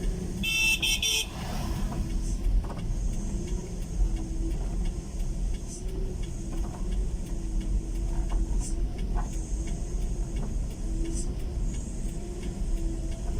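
A vehicle horn sounds briefly about half a second in, over a vehicle engine running steadily with low road rumble.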